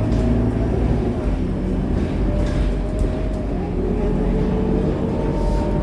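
Scania K230UB city bus under way: its five-cylinder diesel engine and drivetrain running steadily, with a faint whine that slowly rises in pitch.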